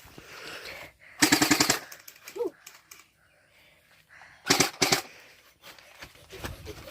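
Electric gel blaster firing on full auto: two short bursts of rapid, evenly spaced shots, the second a little shorter.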